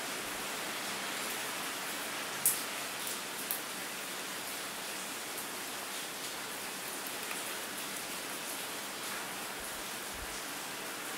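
Steady rain falling, an even hiss, with a few sharp ticks of drops striking something, the loudest about two and a half seconds in and two smaller ones within the next second.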